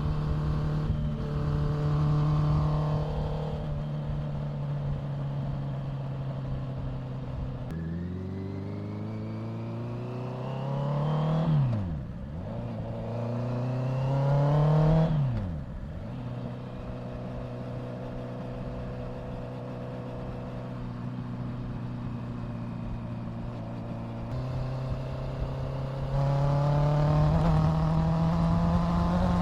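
Honda CBR650F inline-four motorcycle engine under way: steady cruising, then two pulls through the revs, each ending in a sudden drop in pitch at a gear change. It settles back to steady running, then picks up pitch and gets louder near the end.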